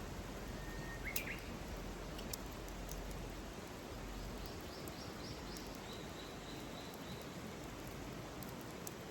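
Wild birds calling over a steady outdoor hiss: one call rising in pitch about a second in, then a run of about five quick high chirps followed by a string of short high notes around the middle. A few sharp clicks are scattered through it.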